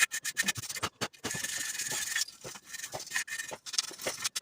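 Toothbrush scrubbing dirt off a radiator's tank and rubber seal: quick irregular scratchy brush strokes, with one longer stroke about a second in.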